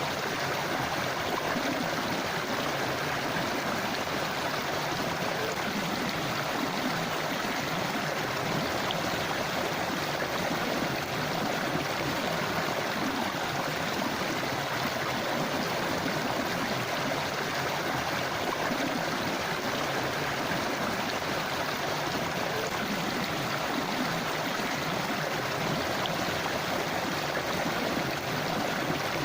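Forest river flowing steadily, a continuous rushing and gurgling of water over rocks.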